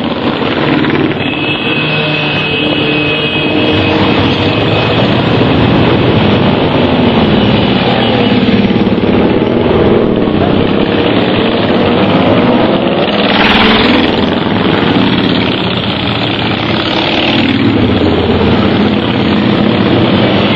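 A stream of motorcycles riding past, many engines running at once in a loud, continuous mix, with individual bikes' pitch rising and falling as they rev and pass.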